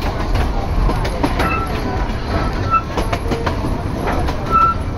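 Train running on its rails: a steady low rumble with irregular clattering knocks from the wheels and a few short squeaks.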